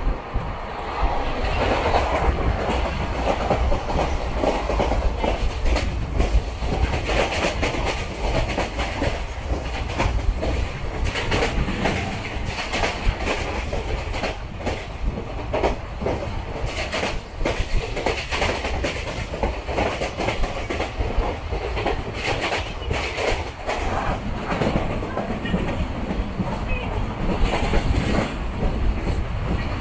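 Passenger train coach running at speed, heard at an open window: steady rumble of the carriage with the wheels clattering over rail joints in a continuous run of clicks.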